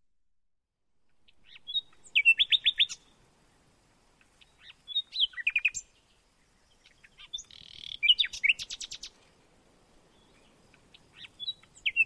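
A songbird singing short phrases of rapid, repeated high chirps, one phrase about every three seconds.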